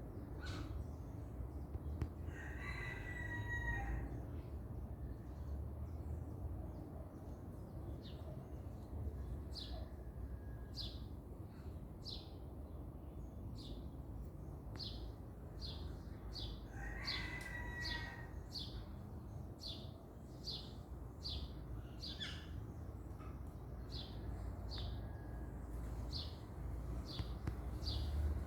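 Birds chirping with short, high notes repeated about once or twice a second, over a steady low rumble. A rooster crows twice, a few seconds in and again about halfway.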